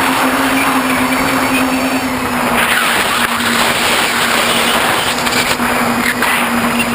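Tricopter's electric motors and propellers humming steadily in flight, under a loud rush of wind on the microphone that grows about two and a half seconds in.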